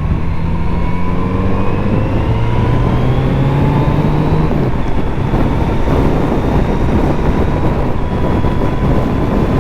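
Kawasaki Z900RS's 948 cc inline-four engine pulling under way, its pitch rising steadily for about four and a half seconds, then dropping and running steady, over a constant rush of wind and road noise.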